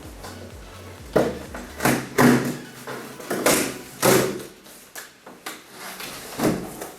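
Corrugated cardboard being worked by hand: about six short scraping strokes a second or so apart as a fold line is scored into the box.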